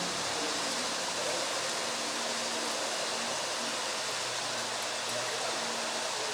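Steady rushing of running water, like a stream or waterfall, holding an even level throughout.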